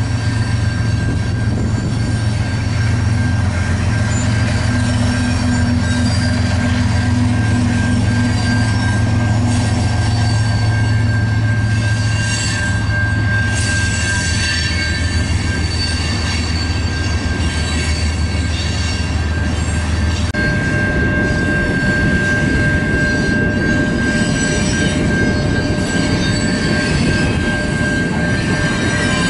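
Freight train rolling past with a CN GE ES44AC diesel locomotive working as a mid-train helper: a steady low engine drone under the rumble of the cars, stopping abruptly about two-thirds of the way in. Over it a thin, steady wheel squeal, louder in the last part, and the continuous rumble of tank cars and coil cars.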